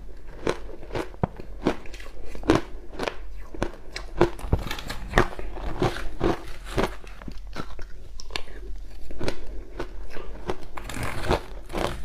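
Crushed ice with passion fruit being bitten and chewed, close-miked: sharp, irregular crunches about two a second, with a denser crackling stretch near the end.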